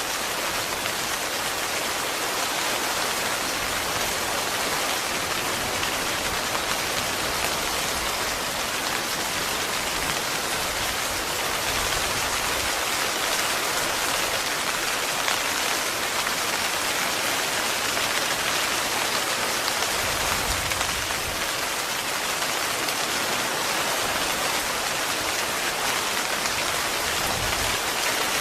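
Heavy, steady rain falling on a tent.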